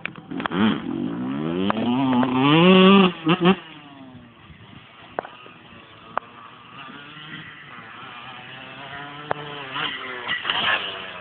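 Motorcycle engines accelerating, their pitch climbing to a loud peak about three seconds in before dropping away suddenly; a quieter engine runs on and builds again near the end.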